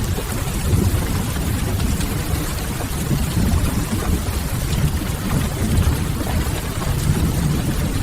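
Steady rain mixed with a crackling wood fire, under a deep, even rumble; a few faint crackles stand out.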